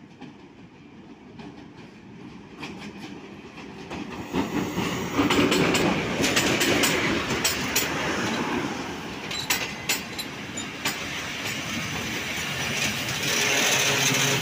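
Diesel locomotive of a passenger express train approaching and passing close, growing louder until it goes by about five seconds in. Its coaches then roll past, with repeated sharp clicks of the wheels over the rail joints.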